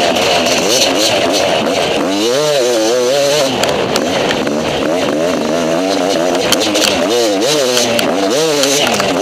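Enduro motorcycle engine heard from on the bike, revving up and falling back again and again as the throttle is opened and closed over rough ground, with occasional knocks from the bike over bumps.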